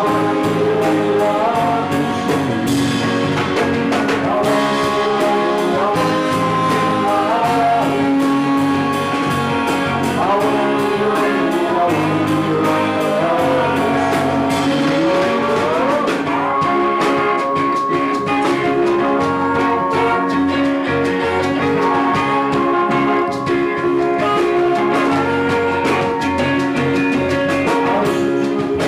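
A live band playing: a pitched lead line over steady low notes, with several short upward bends and one long rising slide about halfway through.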